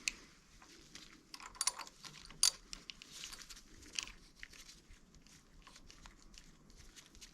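Scattered light clicks and taps of small metal parts and a wrench being handled while a nut is taken off a planer shaft, with a sharper click about two and a half seconds in.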